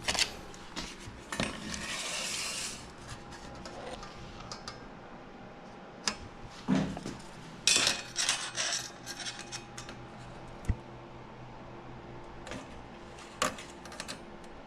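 Welded scrap-steel squares clinking and knocking against metal as they are handled and checked for square. There are scattered sharp knocks, a short scrape about two seconds in, and a busier run of clanks in the middle.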